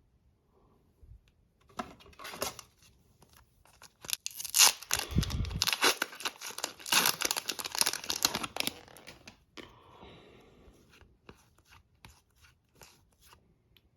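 Foil wrapper of an Upper Deck hockey card pack being torn open and crinkled, with a dense stretch of ripping and crackling from about four seconds in to about nine seconds, then a few faint ticks.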